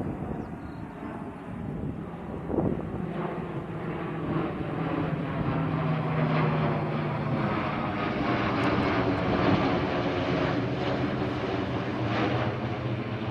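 C-130 Hercules four-engine turboprop flying past, its steady engine drone swelling as it comes closer, with a sweeping, phasing quality to the sound as it goes by.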